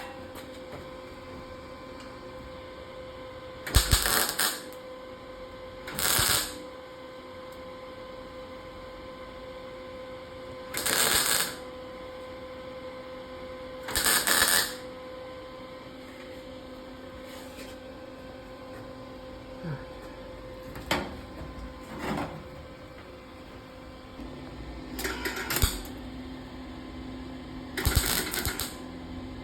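Wire-feed welder arc crackling in six short bursts, each under a second, with a few softer clicks between, as trim holes in a car body panel are spot-welded shut over an aluminum backing. A steady hum runs underneath.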